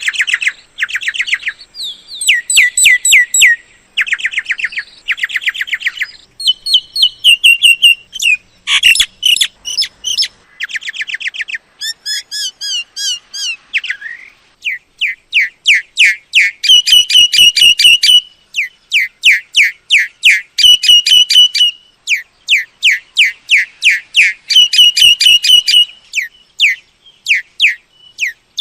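A myna calling: loud phrases of one to two seconds made of rapid, repeated, sharp whistled notes. The pattern changes from phrase to phrase, with short pauses in between.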